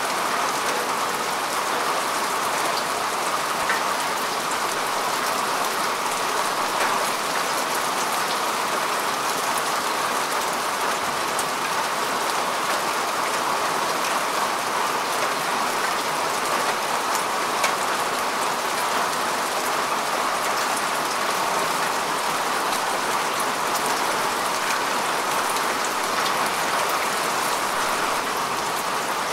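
Steady rain falling on grass and earth, an even patter with scattered individual drop ticks.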